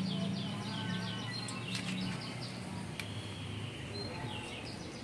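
A bird calling in a fast run of short, high, falling chirps, about four or five a second, that stops about a second and a half in, over a low steady hum that fades after about two seconds.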